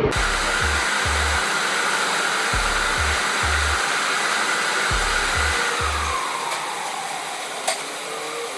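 Car wash air-dryer blowers running with a loud, steady rush; after about six seconds the pitch falls.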